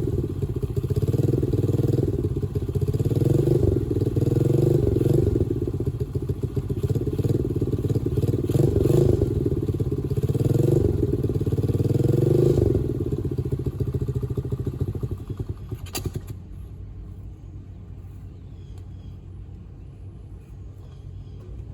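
Dirt bike engine running under throttle, its note rising and falling every couple of seconds. About 13 s in it eases off; a sharp click comes near 16 s, after which only a quieter low steady hum remains.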